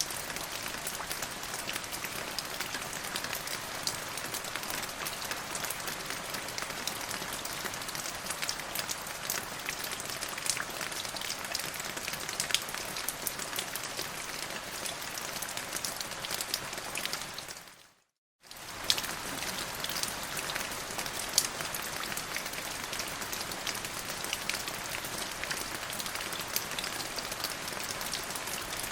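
Steady rain falling, with many sharp individual drop hits over an even hiss. A little past halfway it fades out to a moment of silence and fades straight back in.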